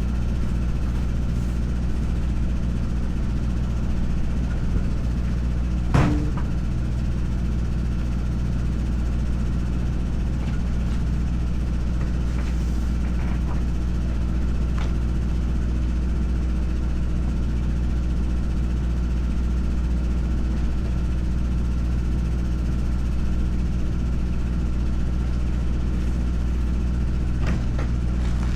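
A heavy engine idling steadily, with one sharp metallic knock about six seconds in and a few light clicks near the end.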